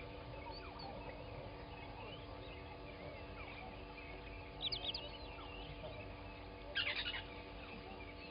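Morning chorus of several wild birds chirping and calling, with two short louder bursts of calls about four and a half and seven seconds in.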